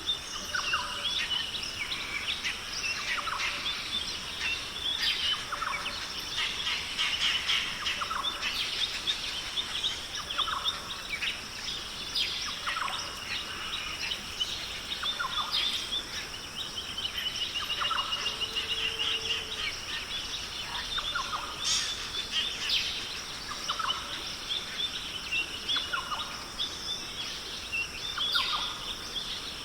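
Forest bird chorus: many birds calling with short chirps and whistles, one short call repeating about every two seconds, over a steady high-pitched drone.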